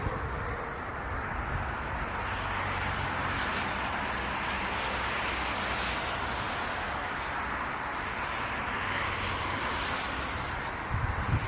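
Jet airliner engines heard at a distance as a steady rushing noise.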